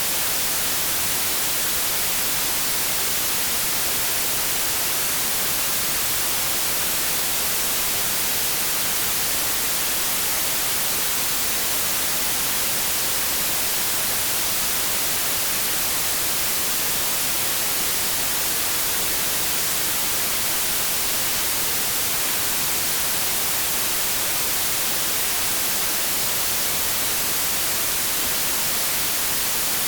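Continuous synthetic white noise: a steady, even hiss, brightest in the high frequencies, with no change in level or pitch.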